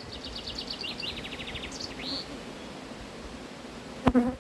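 A songbird sings two quick trilled phrases of rapidly repeated high notes, then a short rising note, over the hum of honeybees from an open hive. About four seconds in there is one sharp knock.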